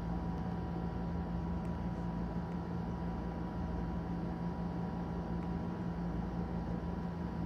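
Steady mechanical hum with an even hiss: a constant low drone and a faint steady high tone, unchanging throughout.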